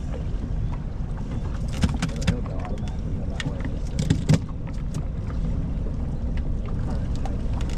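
Steady low rumble aboard a fishing boat, with a few sharp knocks and clicks about two seconds in and again around four seconds in.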